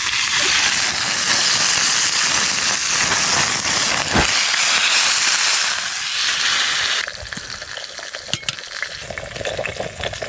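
Steak sizzling loudly in a hot pan, a dense crackling hiss that drops to a quieter sizzle about seven seconds in, with a few sharp ticks after.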